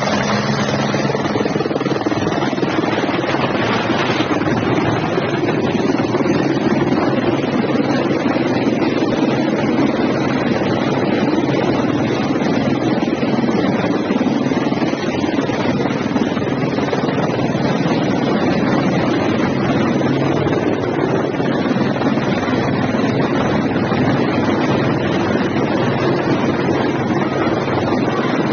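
Helicopter running steadily in a hover, its turbine and rotor making a loud, unbroken drone with a few steady low tones, with wind buffeting the microphone.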